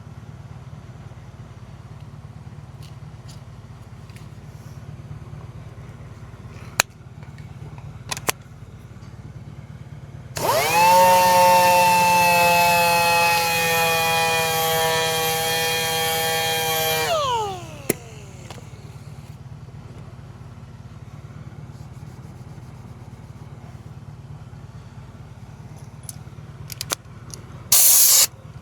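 Handheld sander with a fresh sanding pad runs for about seven seconds, taking failing factory finish off an alloy wheel. Its motor pitch sags slightly, then glides down as it spins to a stop. A steady low hum runs underneath, and a short, loud hiss comes near the end.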